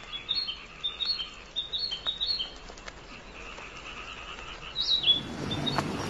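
Small birds chirping in quick runs of short high notes, with one louder gliding call about five seconds in. Near the end a steadier, fuller noise comes in and rises.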